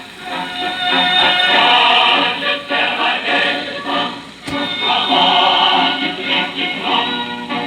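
Music with a choir singing, with a single sharp click about four and a half seconds in.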